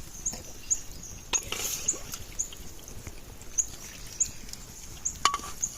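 Short, high chirps from a small animal, repeating about twice a second, with a couple of sharp clicks, one at about a second and a half in and one near the end.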